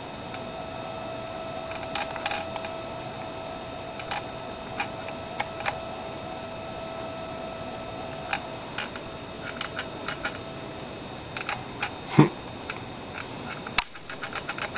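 Steady electrical hum from a radio-control transmitter's signal bleeding into the camera's electronics, with a stronger whine that fades out about eight and a half seconds in. Irregular clicks and ticks come over it, with one louder thump about twelve seconds in.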